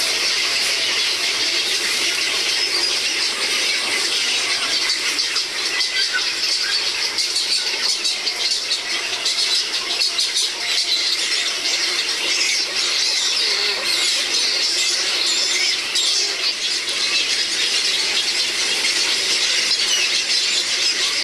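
Heron colony calling: many birds at once, chicks and adults in their nests, making a dense, continuous din of high squealing and squawking calls.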